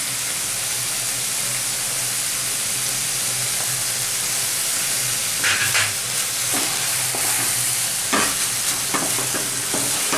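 Ash gourd curry sizzling in a hot nonstick kadai, stirred with a wooden spatula. From about halfway on, the spatula scrapes across the pan a few times.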